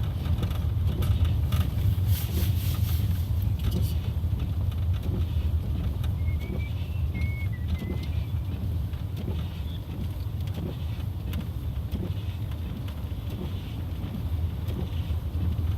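Inside a car driving on a snow-covered road: a steady low rumble from the engine and tyres, with a few faint clicks in the first few seconds.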